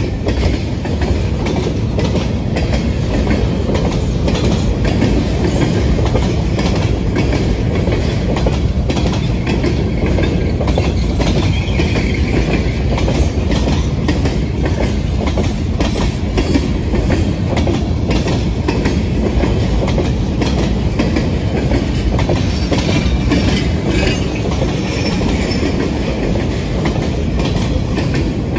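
A freight train's cars rolling past close by: a steady, loud rumble of steel wheels on rail, with frequent clicks as the wheels cross rail joints.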